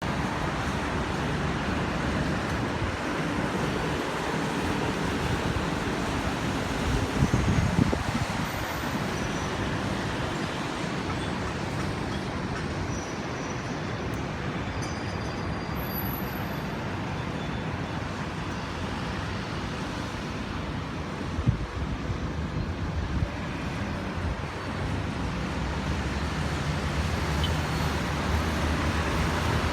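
Steady road traffic in the rain: a continuous rush of tyres on wet road over a low engine rumble, swelling louder about seven seconds in.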